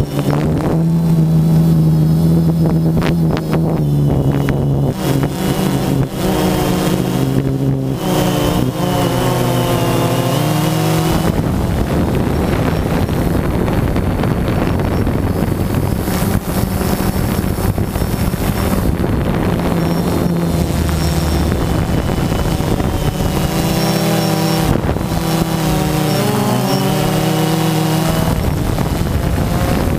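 Small quadcopter drone's electric motors and propellers whining steadily over a hiss of wind, the pitch shifting and bending a few times as the drone changes speed.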